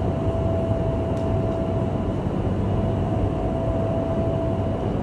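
Steady rush of air and fan noise from an indoor skydiving vertical wind tunnel running, with a faint steady whine above it.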